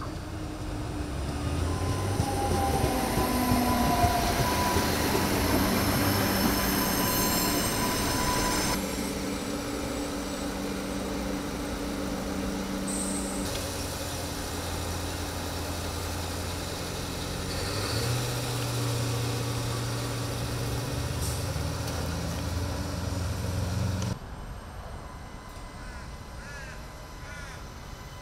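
Adelaide Metro 3000-series diesel railcars running past with a steady engine drone. A squeal of wheels on the rails comes and goes in the first few seconds. The sound shifts suddenly a few times from one passing train to the next, and is quieter for the last few seconds.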